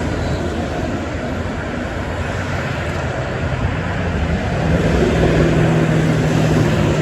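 Highway traffic with heavy trucks passing, a steady rush of tyre and engine noise. About four and a half seconds in, a truck's engine drone comes in and the sound grows louder.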